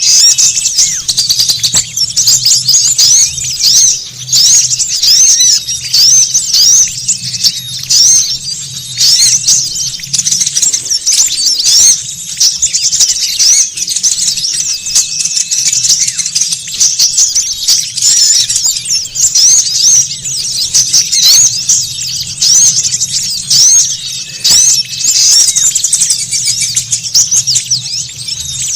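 A dense, noisy chorus of many small birds chirping and twittering rapidly and without a break, high-pitched: a small-bird lure recording. A low steady hum runs underneath.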